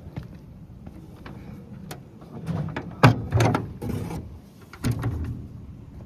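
A series of irregular knocks and clatter from parts being handled, loudest in a cluster about three seconds in, over a low background rumble.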